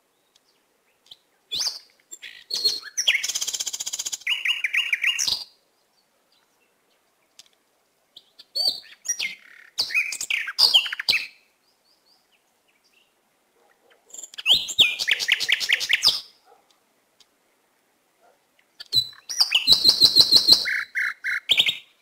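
Bird chirping: four bursts of quick high chirps and trills, each a few seconds long, with pauses of a few seconds between them.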